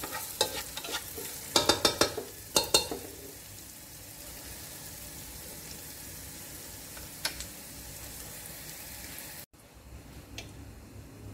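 Sliced garlic and onion sizzling in oil in a nonstick pot. A wooden spatula scrapes and knocks against the pot in a quick run of strokes for the first three seconds, then the frying goes on as a steady sizzle. Near the end, with the lid on, the sizzle is quieter.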